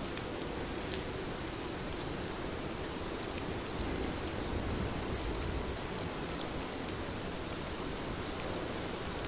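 Heavy rain falling steadily, a dense hiss with fine scattered drop ticks. A low rumble swells briefly about halfway through.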